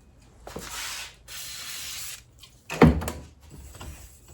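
Two bursts of spray hissing as the fork tube is wetted down so the new fork seal slides on easily, followed by a single loud clunk a little under three seconds in.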